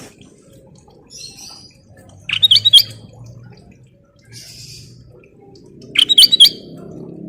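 Kutilang emas, a bulbul, singing: two loud, quick song phrases about three and a half seconds apart, with fainter chirps between them.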